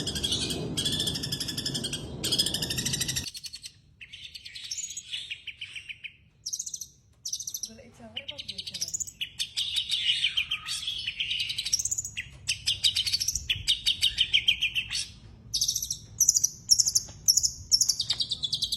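A small bird chirping and trilling in quick runs of high notes, with a low noise underneath that cuts off about three seconds in.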